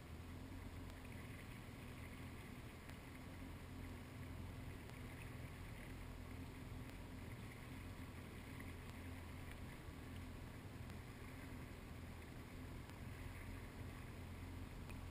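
Faint, steady drone of a jet ski engine running without change.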